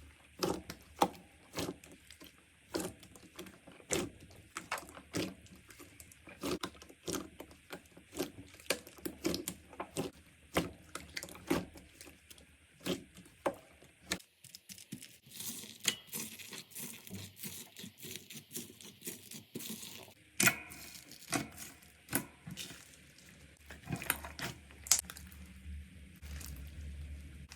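Hands squishing, pressing and stretching slime, making an irregular run of sticky pops, clicks and crackles. About halfway through, the sound changes to a different batch, with a softer hiss between the pops.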